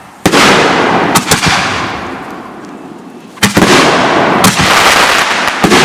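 Fireworks going off: two loud bangs about three seconds apart, each trailing off over a couple of seconds, with a few sharper cracks in between.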